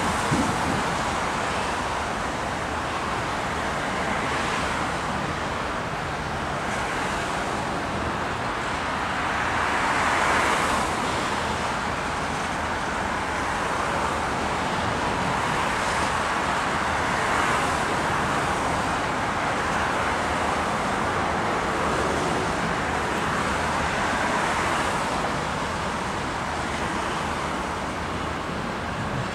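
Freight train of coal hopper cars rolling past, a steady rumbling rush of steel wheels on rail that swells and fades every few seconds.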